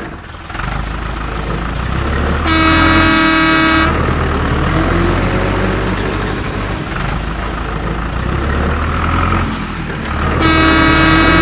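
A vehicle engine running with a steady low rumble, and a horn honking twice, each honk held about a second and a half, the second near the end.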